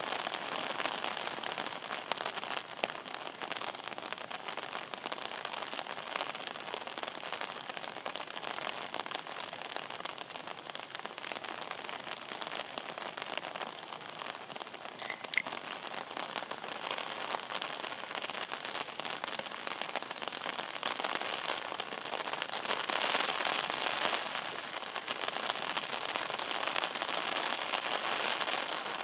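Steady rain falling, a dense even patter of drops, a little heavier in the last few seconds.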